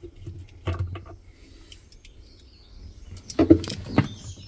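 A few sharp knocks and clatters, one about a second in and a louder cluster near the end, with birds chirping faintly in the background.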